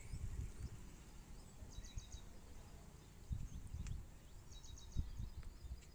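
Faint outdoor background: a small bird gives short, rapid series of high chirps three times, over an uneven low rumble.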